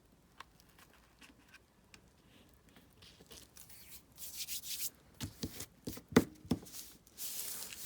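Paper being handled and rubbed down by hand, rustling, with a few sharp knocks on the work surface a little past the middle; the first few seconds hold only faint ticks.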